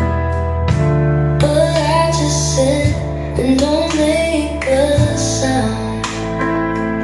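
A song with a female voice singing over sustained chords and bass, played back through PSB Image 5B bookshelf speakers; the voice comes in about a second and a half in.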